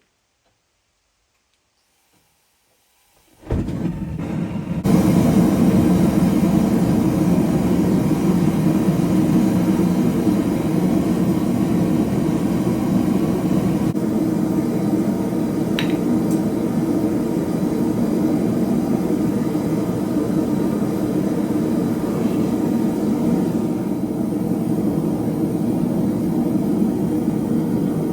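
A blacksmith's forge running with a steady rushing noise. It starts suddenly about three and a half seconds in and grows louder a second later.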